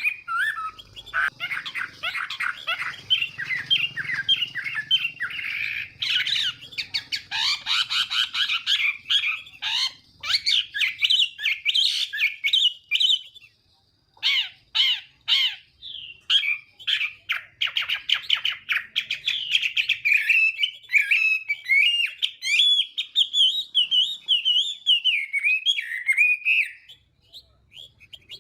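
Chinese hwamei singing a long, fast, varied song of rapid whistled notes. The song breaks off briefly about halfway through and stops shortly before the end.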